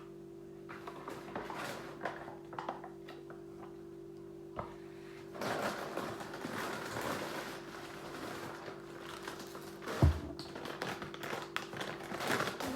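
Light household handling sounds, clicks and rustles, over a steady low electrical hum, growing busier partway through, with one sharp heavy thump about ten seconds in.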